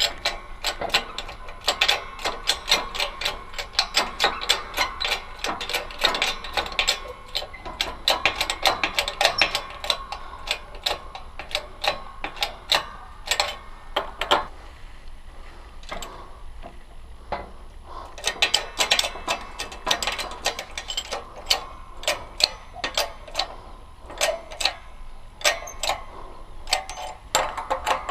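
Quick runs of sharp metal clicks, several a second, as a wheel bearing is worked into a scooter wheel hub, with a short lull about halfway through.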